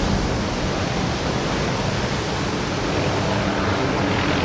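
Steady rushing noise of big ocean surf and wind, with a faint low steady hum underneath.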